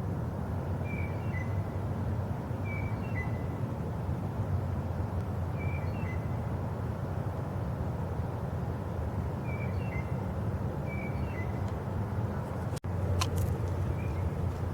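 Short bird chirps, two or three quick high notes stepping down in pitch, repeating every couple of seconds over a steady low rumble. Near the end the sound cuts out for a moment and a sharp click follows.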